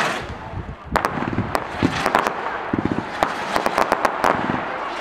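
Fireworks display: a shell bursting with a bang about a second in, then a run of rapid sharp crackles near the end, over the steady hiss of burning effects.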